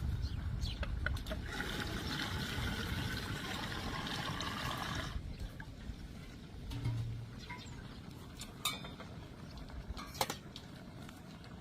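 Water pouring or running for about four seconds, stopping suddenly, followed by a few light clicks and knocks.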